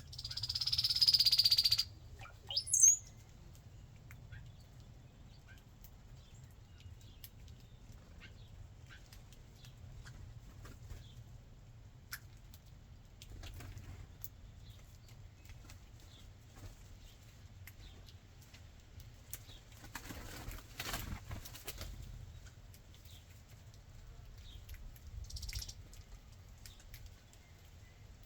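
A bird's wings flapping close by, loud for about a second and a half at the start, followed by a short high call sliding down in pitch. Later come faint scattered ticks and two softer flutters.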